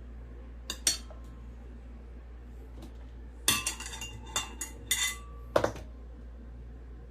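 A knife and dishes clinking while boiled beets are diced: two light knocks about a second in, then a run of sharp, briefly ringing clinks from about three and a half to nearly six seconds in.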